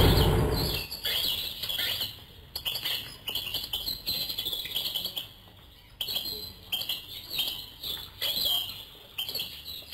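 Airboat engine and propeller noise dying away within the first second, then birds chirping in quick high calls, several clusters with a short lull about halfway through.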